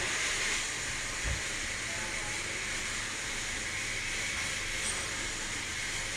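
A steady hiss that starts suddenly and holds at an even level, with a single low thump about a second in.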